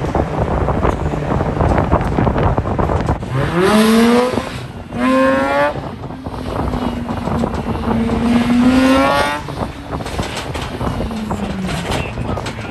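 A car engine revving hard: its pitch climbs about three and a half seconds in, dips briefly, then holds high for about four seconds before falling away near eleven seconds, over a steady noisy rush.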